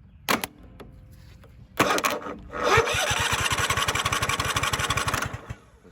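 Lawn mower starter motor jumped straight from the battery with a jumper cable: a sharp click as the cable touches, then the starter cranking the engine with a fast even pulse for about three seconds before it stops suddenly. It shows the starter itself is good, pointing the fault to the solenoid or wiring.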